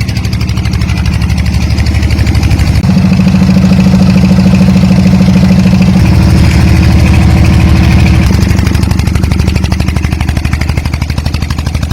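Small motor of a DIY mini tractor model running steadily with a rapid buzzing rattle, its tone shifting in steps a few times as it runs.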